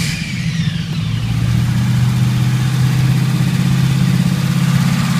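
1934 Plymouth's engine catching right at the start and then running at a steady idle, rising a little in level over the first second or two before holding even.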